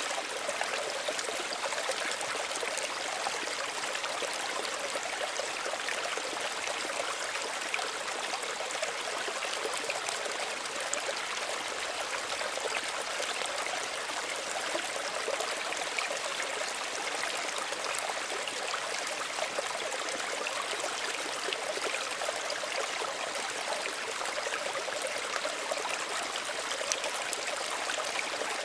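Small stream running over stones, a steady gentle rush with constant fine trickling and splashing.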